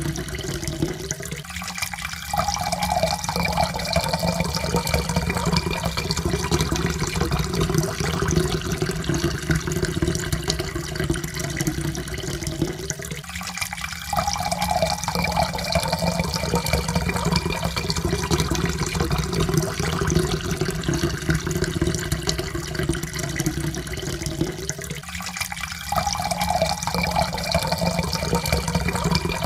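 Water poured steadily into a cup, the pitch of the pour rising slowly as the cup fills. The pour breaks off briefly and starts again about every twelve seconds: near the start, in the middle and near the end.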